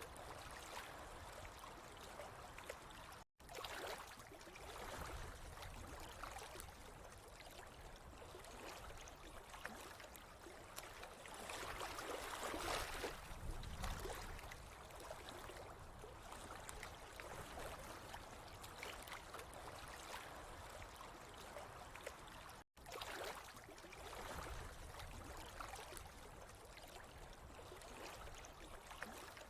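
Running water trickling and gurgling steadily, swelling a little louder about halfway through. The sound cuts out for a split second twice.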